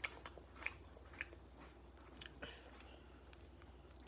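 A person chewing a snack: faint mouth clicks and smacks, roughly two a second, over a low steady hum.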